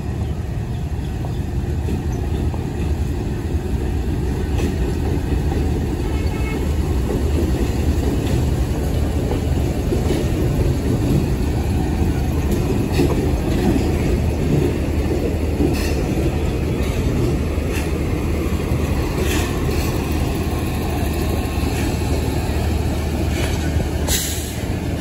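Pakistan Railways ZCU-20 diesel-electric locomotive hauling a passenger train past: a steady, loud rumble of engine and wheels on rails. In the second half the coaches roll by with sharp clacks over the rail joints, the loudest near the end.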